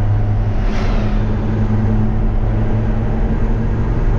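Steady engine and road drone heard from inside a moving vehicle's cab, a low hum under constant road noise. A brief rush of noise rises and fades about a second in.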